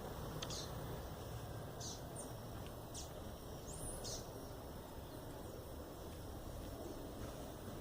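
Garden birds chirping: a handful of short, high chirps scattered through, one a quick upward-sliding note, over a steady low background rumble.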